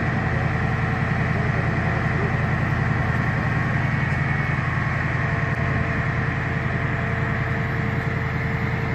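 Heavy vehicle's engine running steadily, with a fast, even low pulsing and faint steady whining tones above it.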